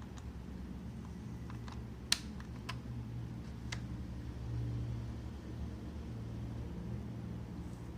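Seagate laptop hard disk clicking while it hums. There is a steady low hum and a few sharp, irregularly spaced clicks in the first four seconds, the loudest about two seconds in. Repeated clicking like this is typical of a failing drive whose heads cannot read.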